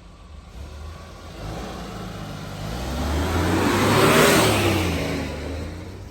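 A motor vehicle driving past: engine and tyre noise swell to a peak about four seconds in, then fade away.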